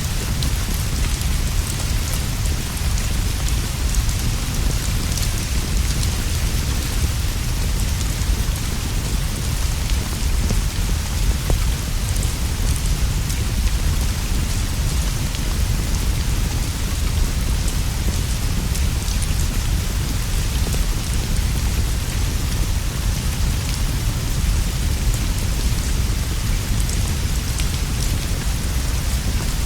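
Steady rain ambience: continuous rainfall on leaves and a roof over a deep, unbroken low rumble, with scattered faint pops from a crackling fireplace.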